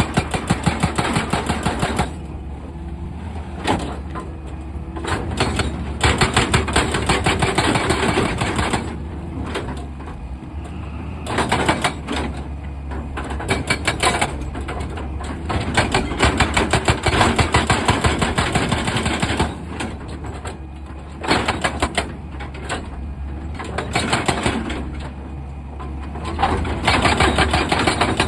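Excavator's hydraulic rock breaker hammering rock in bursts of rapid, evenly spaced blows, with the diesel engine running steadily underneath.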